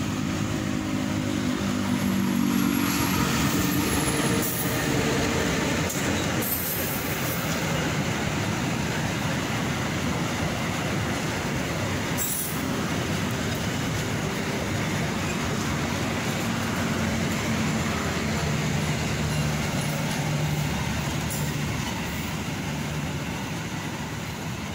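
The Joglosemarkerto, a diesel locomotive-hauled passenger train, passes close by at speed. The locomotive's engine hum comes first, then the steady rumble of the coaches' wheels on the rails, with a brief high squeal a couple of seconds in and a few sharp clacks.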